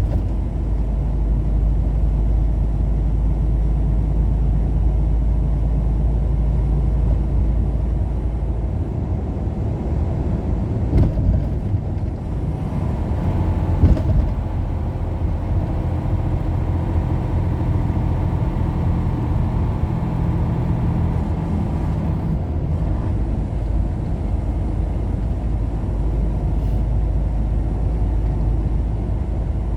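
A road vehicle driving, with a steady low road-and-engine rumble and a couple of brief knocks partway through.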